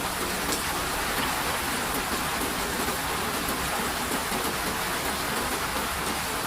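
Steady rainfall, an even hiss of many drops with a few single drops ticking out of it.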